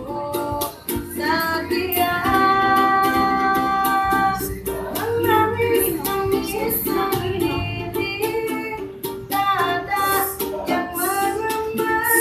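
A child street busker singing a melodic song over strummed plucked-string accompaniment, with long held notes and sliding ornaments.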